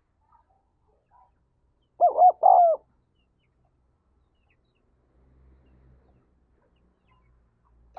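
Spotted dove cooing a single three-note phrase about two seconds in.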